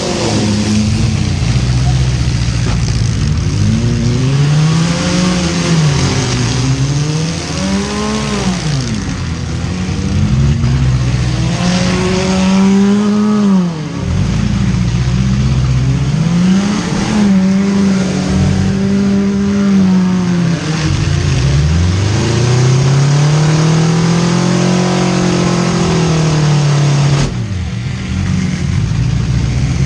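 Demolition derby car engines revving hard, the pitch repeatedly climbing and falling as the cars accelerate and back up, with a sharp bang near the end. The closest engine is the 2001 Subaru Outback's four-cylinder.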